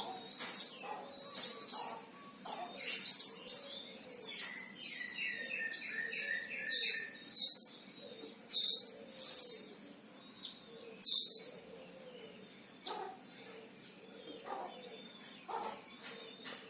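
Mantenan Himalaya songbird singing lively, fast, high-pitched chattering phrases in quick succession for about eleven seconds, with a lower rattling trill among them in the middle; after that only a few fainter calls.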